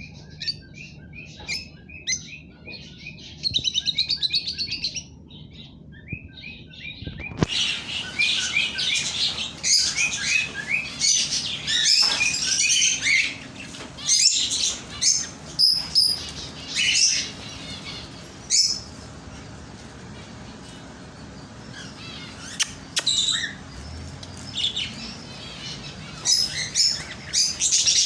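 Small birds chirping and twittering: sparse repeated chirps at first, then, about seven seconds in, a dense, louder chorus of many birds that eases off in the middle and picks up again near the end.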